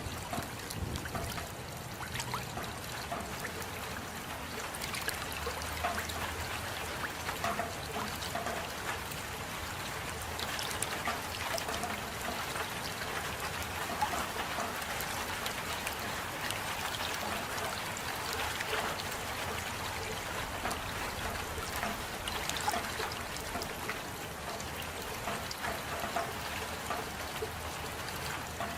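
Steady rain with water trickling and many small drops ticking, an even, continuous sound.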